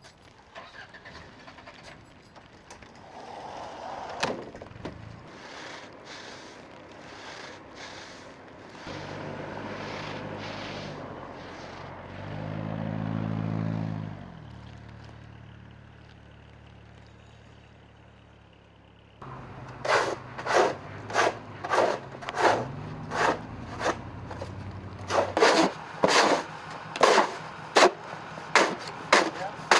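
A motor vehicle's engine runs for several seconds, swelling and then easing off. After that comes a steady run of sharp scraping strokes in snow, about one and a half a second.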